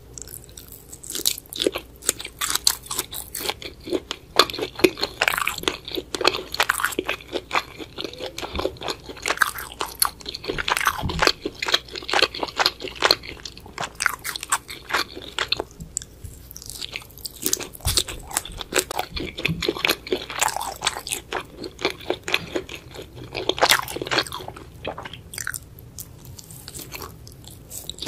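Close-miked eating of a spicy seafood boil, shrimp and octopus: biting and chewing, heard as a dense, irregular run of short clicks and mouth sounds.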